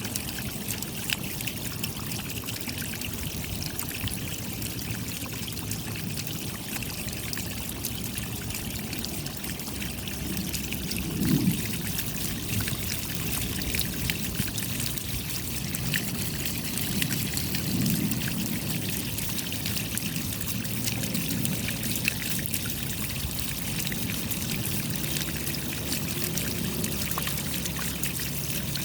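Steady rain, with a dense spatter of small drop ticks over a constant wash of falling water. A louder low thump comes about eleven seconds in and a softer one near eighteen seconds.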